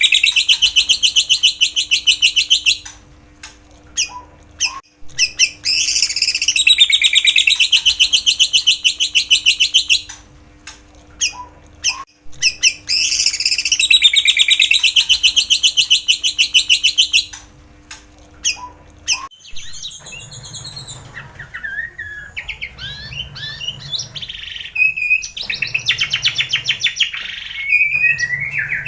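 Recorded songbird song used as bait for a white-rumped shama. A fast, buzzing high trill of about five seconds comes three times, with short ticks in the pauses. About two-thirds in, it gives way to varied whistled notes and sliding phrases.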